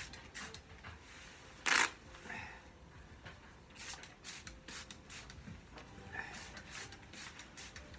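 Hand trigger spray bottle spritzing Fabsil waterproofer onto a fabric motorbike jacket: a string of short hissing squirts, the loudest about two seconds in.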